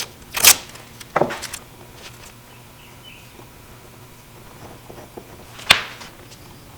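Workshop handling sounds of tools and wood on a workbench: two knocks in the first second and a half, then a sharp click near the end, with quiet between.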